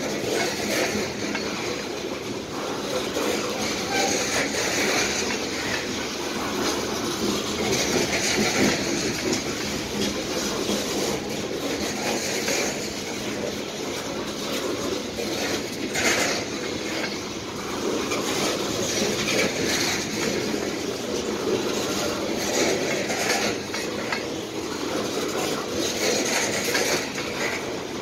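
Aluminum coal hopper cars of a long freight train rolling past. Steel wheels on rail make a steady rolling noise, with irregular clicks as the wheels cross rail joints; the loudest click comes a little past halfway.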